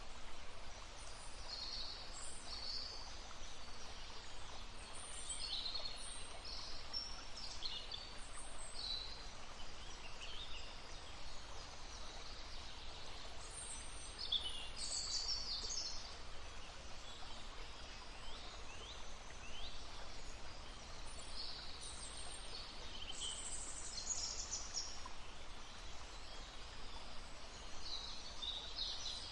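Several songbirds chirping and trilling in short, scattered phrases over the steady murmur of a running stream.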